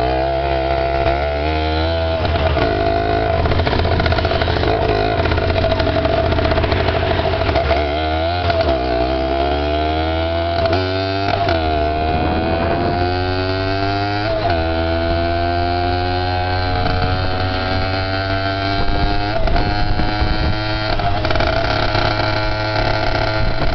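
Dirt bike engine running while ridden. Its pitch climbs repeatedly as it accelerates, then drops back at each shift or throttle-off.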